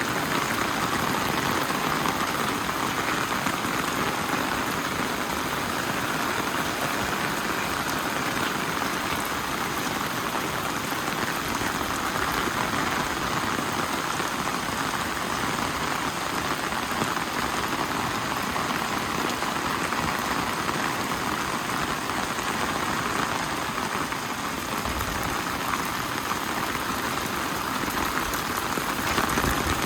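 Steady rain falling, a constant even hiss of drops on surfaces.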